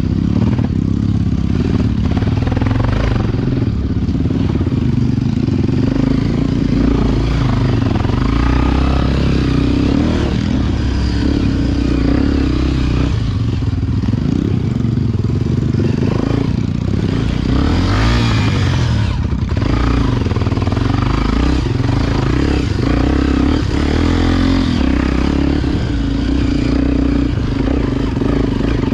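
Honda XR Tornado single-cylinder four-stroke dirt bike engine running under way, its pitch rising and falling with the throttle, with a brief louder rush of noise about two-thirds of the way through.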